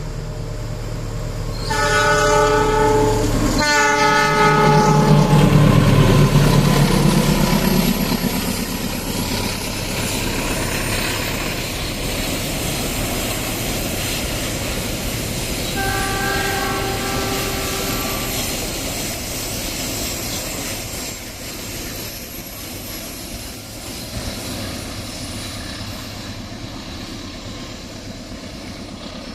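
Diesel-electric locomotive CC 206 sounding its multi-tone horn in two long blasts, the second falling in pitch as the locomotive passes close by, its engine loudest just after. A shorter horn blast follows about 16 seconds in, while the loaded cement wagons roll past with a clickety-clack that slowly fades.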